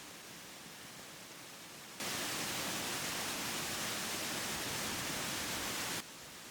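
Waterfall rushing as a steady, even noise. About two seconds in it jumps much louder and brighter, holds for about four seconds, then drops back abruptly.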